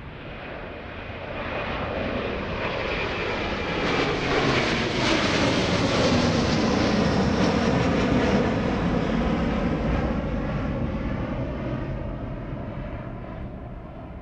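Jet airliner passing close by, its engine roar swelling to a peak about halfway through and then fading away, with a faint high engine whine early on.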